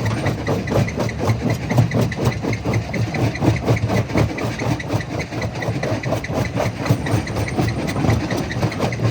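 Jaw crusher running steadily, a low mechanical hum with a rapid, even pulsing.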